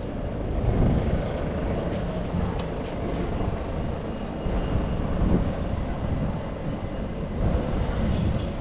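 City street noise: a steady low rumble like passing traffic, swelling now and then.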